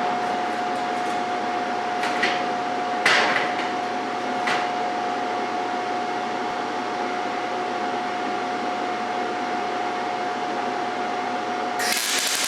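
A steady hum with a constant tone from the welding setup, with a few sharp metal knocks. Near the end a MIG welding arc strikes and runs with a loud crackling hiss.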